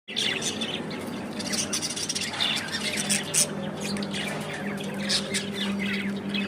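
Budgerigars chattering: a dense stream of quick chirps, squawks and warbles, with a steady low hum underneath.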